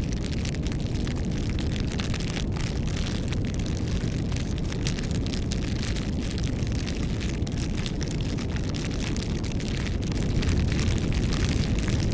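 Bonfire burning, a steady low roar with frequent small crackles and pops of burning wood; it grows a little louder about ten seconds in.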